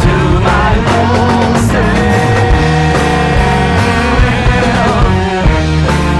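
Loud rock music from a band, with guitar and regular percussion hits.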